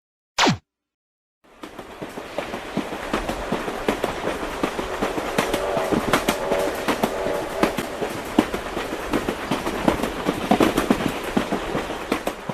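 Train running on track, wheels clicking over rail joints in a steady dense clatter that fades in. A brief falling whoosh comes just before it.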